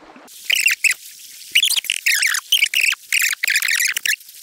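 A bird singing in several short bursts of quick, warbling, high-pitched phrases, over the steady hiss of a running stream.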